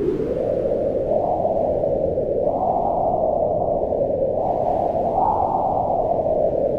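Howling mountain wind: a steady rushing whose pitch slowly rises and falls in swells, highest around the middle and sinking toward the end.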